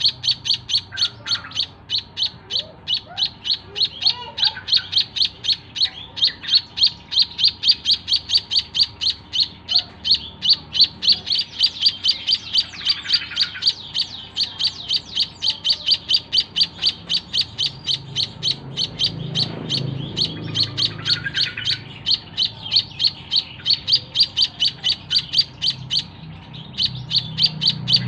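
White-headed munia (emprit kaji) calling a long, even series of short high chirps, about three a second, with a brief pause near the end.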